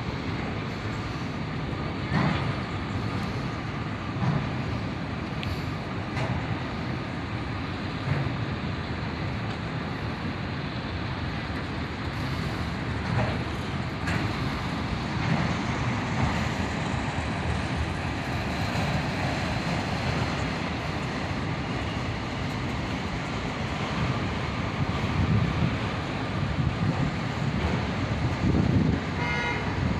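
Freight cars of a long manifest train rolling past on the rails: a steady rumble, a faint ringing tone from the wheels, and occasional clicks of wheels over the rail joints.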